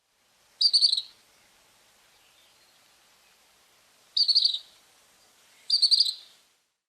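Tropical kingbird calling: three short bursts of rapid, high twittering notes, the first about half a second in, then two close together near the end.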